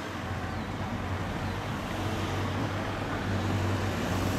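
Steam train running past with a steady low rumble and a broad hiss of noise, which grows louder at the start.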